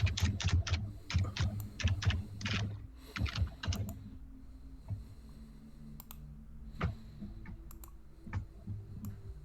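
Typing on a computer keyboard: rapid keystrokes for about the first four seconds, then a few scattered clicks over a low steady hum.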